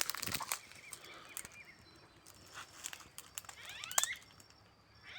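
Birds calling in short rising chirps, a few about a second and a half in and a quick run of them near four seconds, with a crackling rustle in the first half second.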